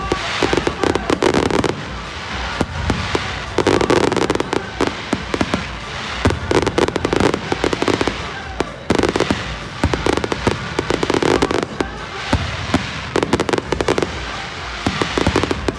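Aerial fireworks show: a dense, continuous barrage of shell bursts and crackling, with sharp reports coming every fraction of a second.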